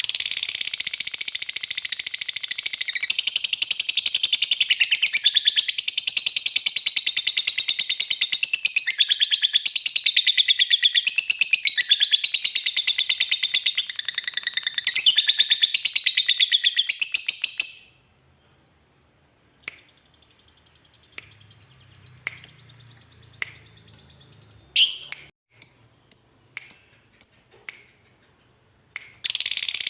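Lovebird giving a long ngekek: a fast, unbroken, high-pitched chattering trill that runs for about eighteen seconds and then stops. A handful of short, sharp chirps follow before the chattering starts again near the end.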